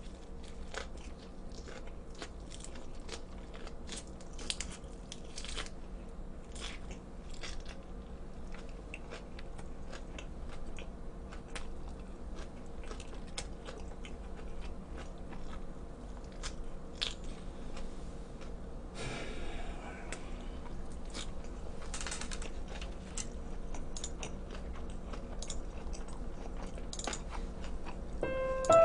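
Close-up chewing and crunching of a lettuce wrap filled with cold jokbal (pork trotters), crisp wet crunches coming irregularly many times a second. Music starts abruptly right at the end.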